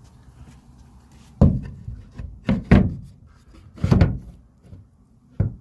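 About five dull knocks and thumps against the bare inner wall of a van body, its panelling and insulation stripped out.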